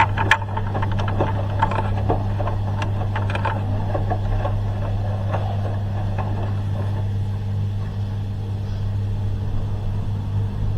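A dishwasher and a washing machine running together: a steady low machine hum, with light clicks and knocks in the first few seconds.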